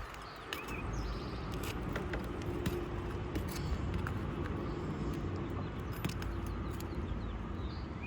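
Steady outdoor hum with a faint engine tone, as of a vehicle running, broken by scattered light clicks. A short bird chirp comes near the end.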